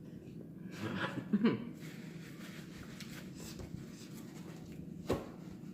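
Close-up eating sounds while working through shellfish: a short hummed murmur and some mouth noise about a second in, then scattered small clicks and a sharp click near the end, over a steady low room hum.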